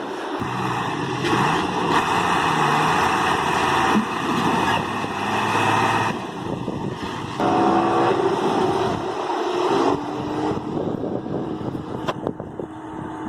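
Vehicle and engine noise in a string of short clips that change abruptly every second or two, with a steadier pitched hum for a couple of seconds a little past the middle.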